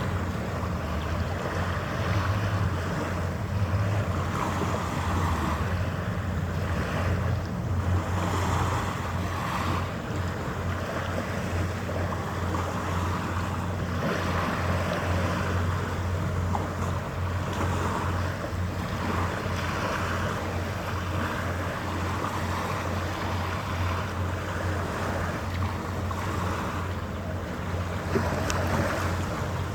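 Steady low hum of a ship's engines, with wind gusting on the microphone and the wash of harbour water.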